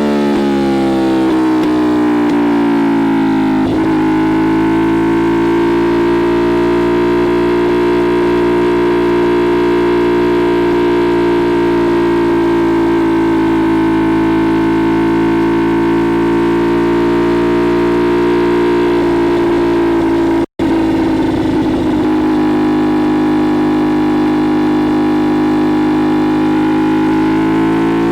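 CFMoto 450SS parallel-twin engine heard on the move through a Leo Vince LV-10 slip-on exhaust. The revs fall over the first few seconds, with a short click about four seconds in, then hold fairly steady at cruising speed before climbing again near the end. The sound drops out for an instant about two-thirds of the way through.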